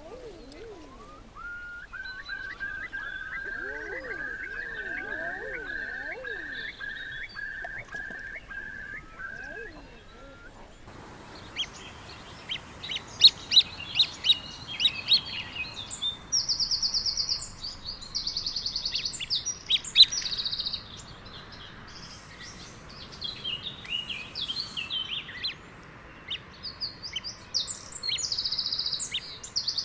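Wild birds singing: first a run of about a dozen evenly repeated whistled notes, then, after a sudden change, a busier chorus of quick high chirps with several high buzzy trills about a second long.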